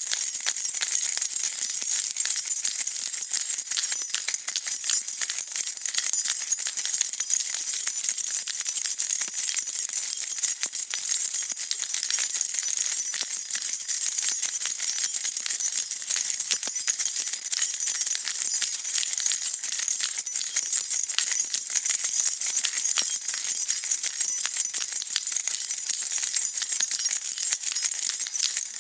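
A bunch of metal keys being shaken steadily, with continuous dense jingling and no pauses.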